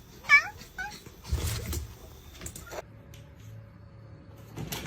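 A cat meows: one short call just after the start and a smaller one just after it. A dull bump and rustling follow about a second and a half in.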